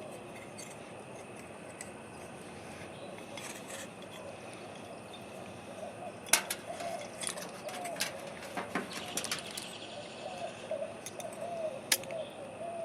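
Small metal parts of a truck under-hood light being handled and fitted, with sharp clicks about six seconds in, around eight seconds and near the end. A faint wavering tone runs under the second half.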